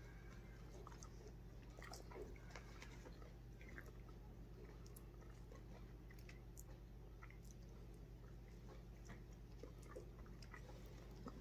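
A person faintly chewing a soft donut, with scattered small mouth clicks over a steady low hum.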